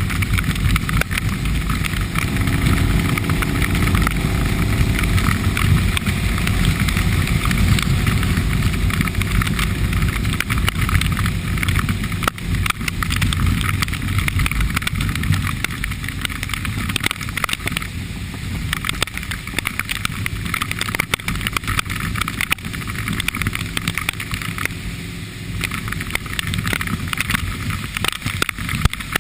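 Motorcycle engine running under way, with wind rushing over the microphone and the hiss of wet road; the engine pitch rises as it speeds up a couple of seconds in.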